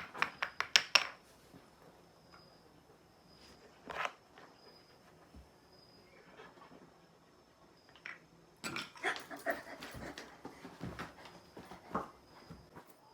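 Shiba Inu playing with a plastic bottle cap: a quick run of sharp clicks in the first second, a single click about four seconds in, and a longer stretch of clicking and scuffling in the second half.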